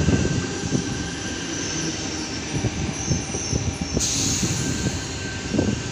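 Double-deck electric passenger trains running on the rails, a steady rumble with a faint thin wheel squeal over it. About four seconds in the sound changes abruptly to another train, an Intercity double-decker approaching along the platform.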